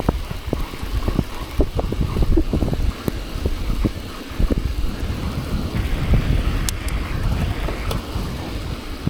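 Wind buffeting the microphone of a chest-mounted camera on a bicycle riding through falling snow, heard as a steady low rumble with many short knocks and thumps scattered through it.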